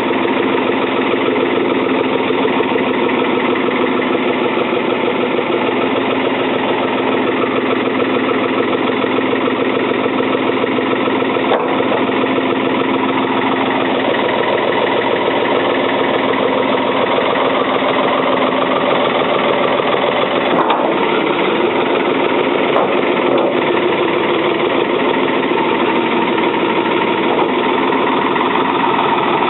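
1977 Ford 555 backhoe's diesel engine running steadily, soon after its first start in over two years.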